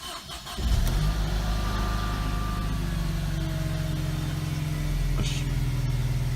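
Mercedes-Benz SLK200 Kompressor's supercharged four-cylinder engine catching about half a second in and settling into a steady idle, started on a freshly fitted battery.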